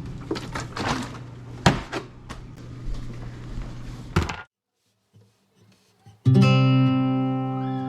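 Scattered knocks and clatter over a low hum, then a gap of near silence, then an acoustic guitar chord strummed about six seconds in and left ringing.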